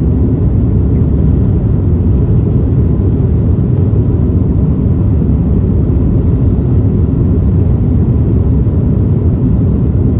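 Steady, loud rumble of engine and airflow noise inside the passenger cabin of an Airbus A330-300 airliner with Rolls-Royce Trent 700 engines, in flight.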